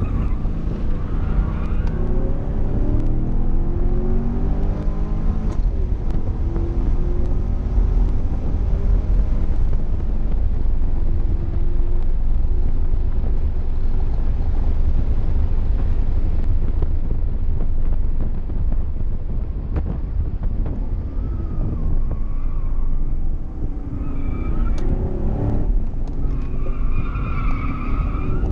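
Chevrolet Camaro engine heard from inside the cabin at track speed. Its pitch rises as it accelerates over the first few seconds, then it holds a steady drone over heavy road rumble. Near the end it briefly eases off and pulls again while the tires squeal through a corner.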